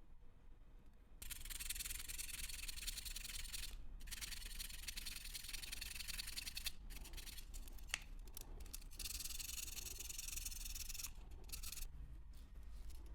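Dry rubbing or abrasive scrubbing noise in long stretches, starting about a second in, with short pauses around four, seven, nine and eleven seconds in. A single sharp click comes about eight seconds in.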